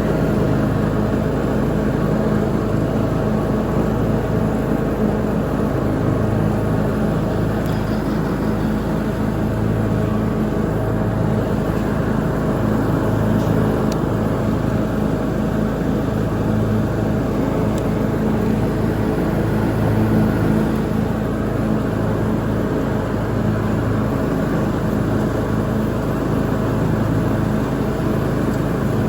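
Lawn mower engine running steadily under mowing load, a constant drone with no change in speed.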